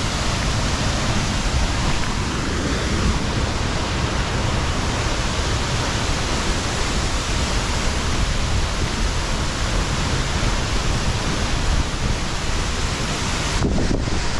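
Waterfall crashing into its plunge pool at close range: a steady, loud rush of falling water and spray. The hiss briefly dulls for a moment near the end.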